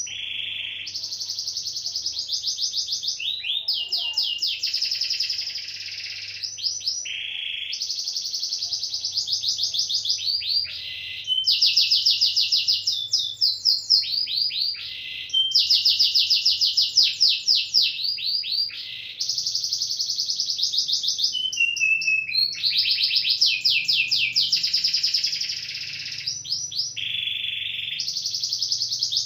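Domestic canary singing a long, continuous song of rapid high-pitched trills and repeated notes, phrase after phrase with only brief breaks between them.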